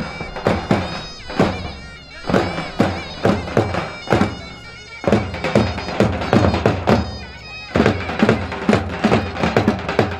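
Kurdish wedding dance music from a live band: a reedy, ornamented lead melody over a heavy drum beat that pauses briefly three times.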